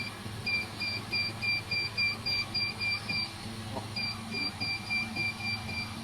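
Laser welding machine beeping: a steady train of short, high electronic beeps, about three a second, with a brief break a little past halfway, over the machine's steady low hum.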